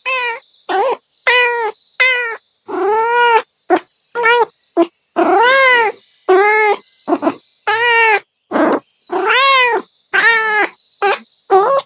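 Cat meowing over and over in quick succession, about one and a half meows a second. Each meow is short and rises then falls in pitch.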